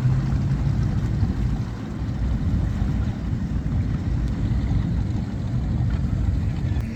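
Motorboat engine running steadily: a low rumble, its hum strongest for about the first second and then easing slightly.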